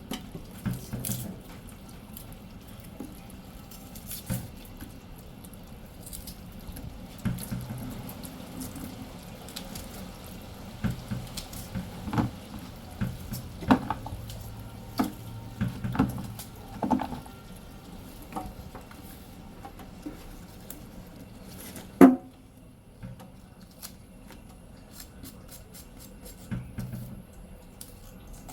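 Vegetables being rinsed and cut at a kitchen sink: water dripping and splashing, with scattered knocks and clicks of a knife and dishes, one much louder knock about three quarters of the way through.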